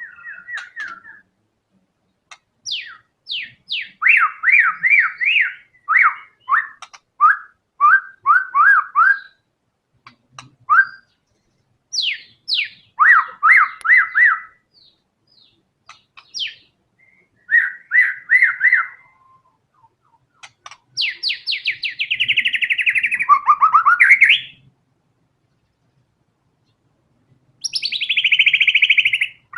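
White-rumped shama (murai batu) singing loud phrases of rapid repeated whistled notes and sharp downward-sweeping notes, with short pauses between phrases. About two-thirds of the way in comes a longer rattling, buzzy phrase that drops in pitch, and another like it starts near the end.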